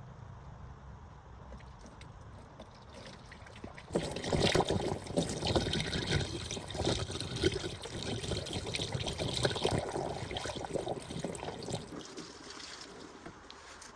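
Water running and splashing, starting suddenly about four seconds in and dying away about eight seconds later, over a low steady hum.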